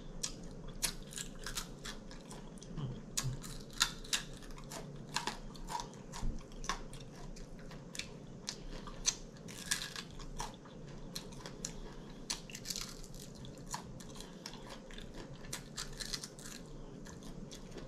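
Close-up chewing and biting of air-fried chicken wings: a steady run of small, sharp crunches and mouth clicks.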